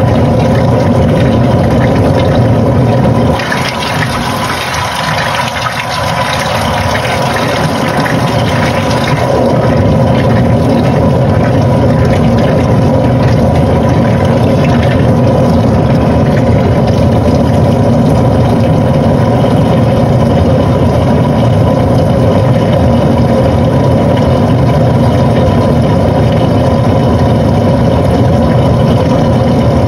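Panasonic NA-FA80H8 top-loading washing machine running mid-cycle: a steady motor whine over churning mechanical noise, which drops for a few seconds near the start and then comes back to a steady level.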